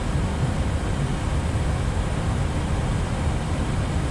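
Steady cabin noise on the flight deck of an Airbus A320 neo in flight: an even rushing of airflow over a constant low rumble.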